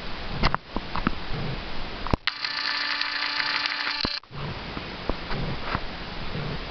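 Blizzard wind buffeting the camera microphone, with low thumps and a few handling clicks. About two seconds in, it cuts abruptly to a steady hiss with a low hum, which cuts back to the wind about two seconds later.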